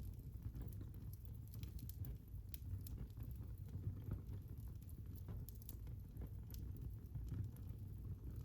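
Fire crackling in a fireplace: irregular sharp pops and snaps over a low steady rumble of the flames.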